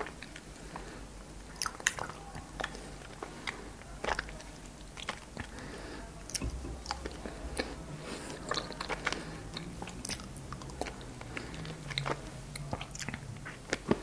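Frozen cherries being bitten and chewed: irregular crisp crunches and sharp clicks, several every second.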